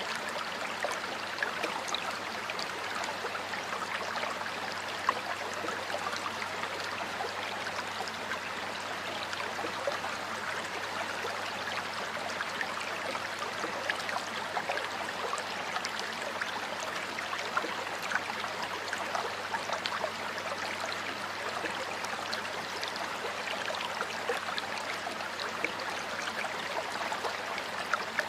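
Running water of a river flowing steadily, with many small splashes and gurgles.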